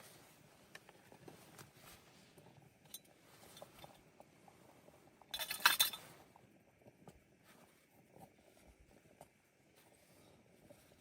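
Scattered light taps and clicks of hard objects being handled, with a brief, louder clinking clatter a little past halfway.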